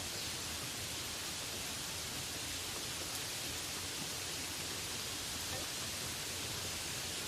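Steady rainfall, an even hiss with no breaks or distinct drops standing out.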